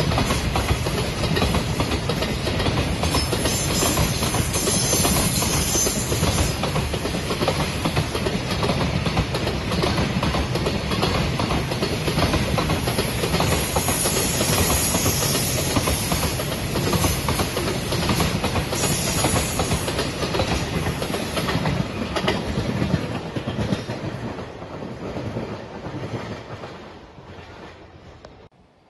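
Freight train of container flat wagons passing close by: a loud steady rumble with rapid wheel clatter over the rail joints. It fades over the last few seconds as the final wagons go by, then cuts off suddenly.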